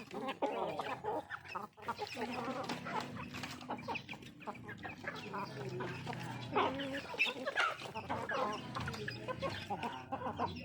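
A flock of chickens clucking while they feed, with many short calls overlapping throughout.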